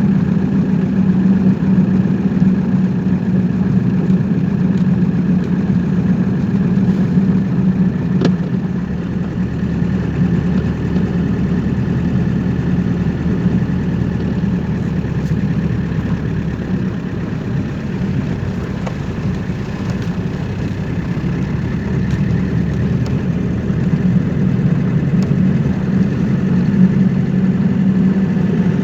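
Car engine running steadily under an even hum, with a deeper drone coming in for several seconds around the middle.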